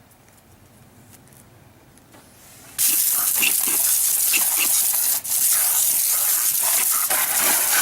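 Water spraying hard from a PVC undercarriage washer wand fed by a garden hose, starting suddenly about three seconds in after a quiet stretch, with one brief break a couple of seconds later.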